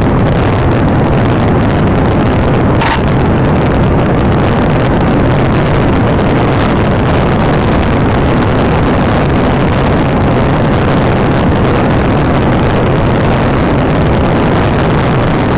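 A police patrol car driving fast in pursuit: a steady, loud rush of engine, tyre and wind noise.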